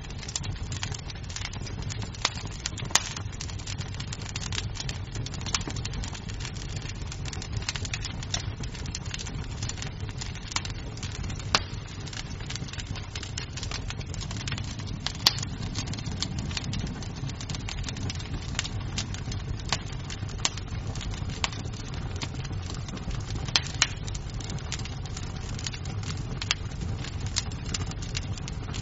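Wood fire burning in a fireplace: a steady low rumble of flames with frequent small crackles and a few sharper pops of the burning wood.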